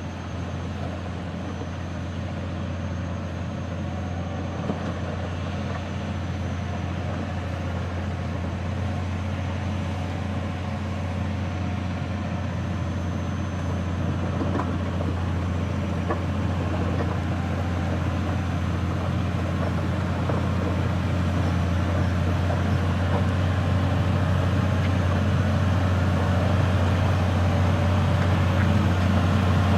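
Heavy truck's diesel engine running under load at steady revs, as on a slow climb up a slippery incline. It grows gradually louder as the truck draws nearer.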